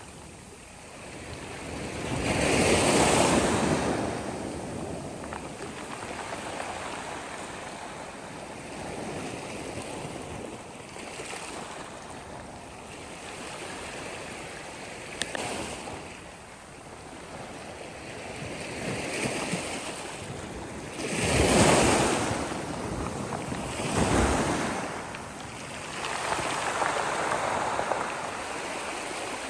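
Sea waves breaking on a shore, the surf swelling and washing back in repeated surges, the loudest wave breaking a little past the middle.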